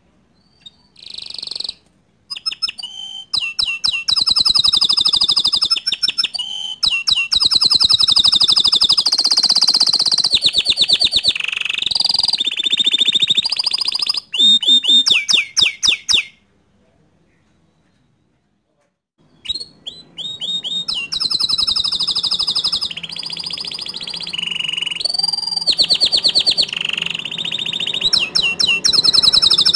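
Domestic canary singing in long runs of rapid, repeated trills and rolls, with a pause of a few seconds a little past the middle.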